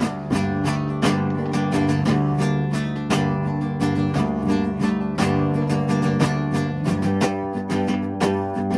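Acoustic guitar playing an instrumental passage of a song, with steady plucked and strummed notes.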